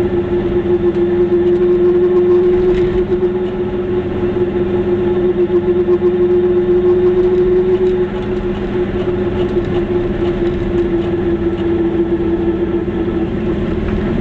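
Goggomobil's small two-stroke twin engine droning steadily at cruising speed, heard from inside the car along with road noise.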